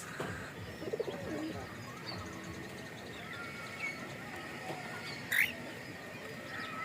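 Cockatiel chicks chirping faintly now and then, with one louder, short rising chirp about five seconds in.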